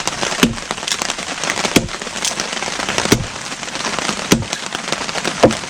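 Heavy rain falling steadily, with five regular knocking blows about a second and a half apart as a log that was sawn partway through is split into kindling.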